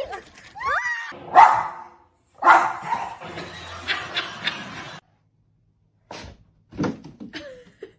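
A dog whining and barking, with a few rising high-pitched calls and short sharp barks.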